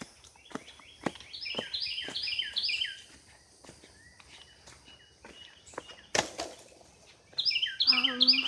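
Footsteps on a woodland trail under a songbird singing a quick run of repeated down-slurred whistled notes, twice, over a steady faint high insect drone. A louder knock comes about six seconds in.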